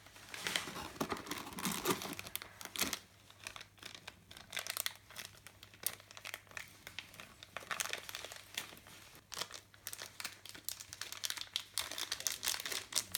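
Plastic packaging crinkling and tearing in irregular bursts of crackles as small toy accessories are unwrapped by hand.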